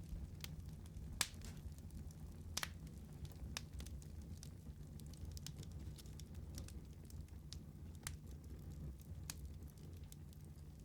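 Wood fire burning in a fireplace, crackling and popping irregularly over a low steady rumble, with two louder pops in the first few seconds.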